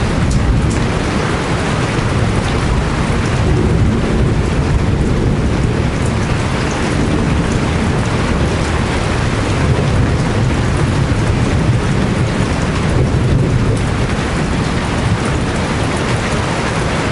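Heavy rain falling steadily, with a deep continuous rumble underneath.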